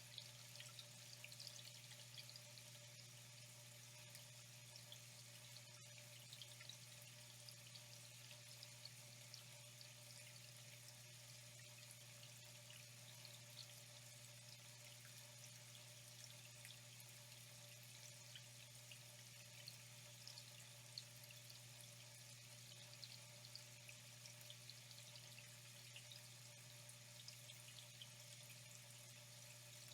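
Faint, steady flowing water with small splashes and drips, over a steady low hum.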